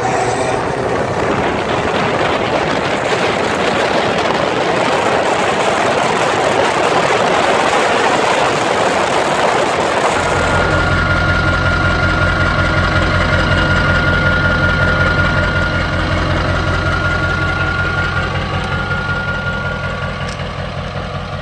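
1996 Ford 7.3 Powerstroke turbo-diesel V8 running through a straight-piped side exhaust. For about the first ten seconds it makes a loud, noisy rush, then abruptly settles into a steady, evenly pulsing idle.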